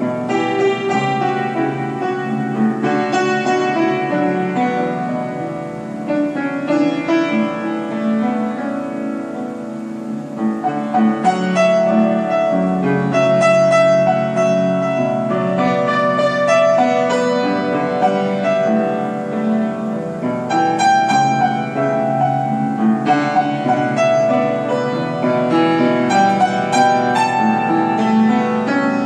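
Piano playing a melodic piece. It grows fuller and louder about eleven seconds in.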